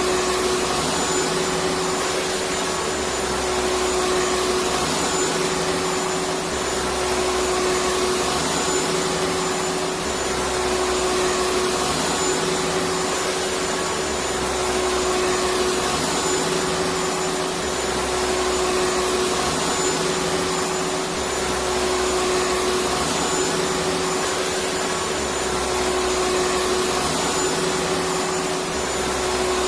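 Electric vacuum cleaner running steadily: a constant rush of air with a steady hum, its loudness swelling slightly about every four seconds.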